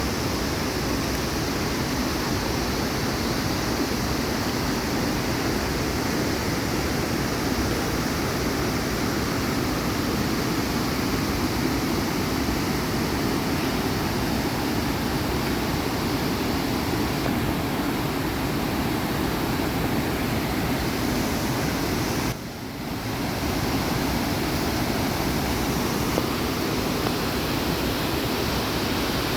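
Torc Waterfall's water cascading down the rocks: a steady, even rushing of falling water, briefly dipping about three-quarters of the way through.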